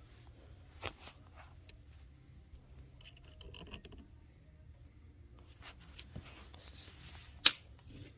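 Faint handling of metal parts and tools: a few sharp clicks and clinks, the loudest near the end, and a short stretch of scraping about three seconds in, over a steady low hum.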